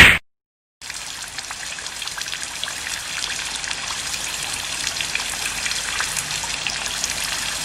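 Steady rain, an even hiss with many small pattering drops, starting about a second in after a brief silence.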